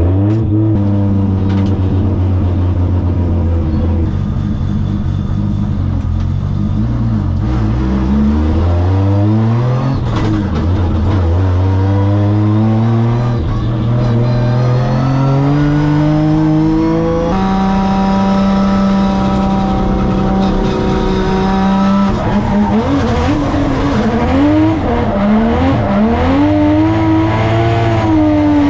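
A drift car's engine running hard, its pitch climbing through the revs with sudden drops, as at gear changes. It is then held steady and swings up and down near the end.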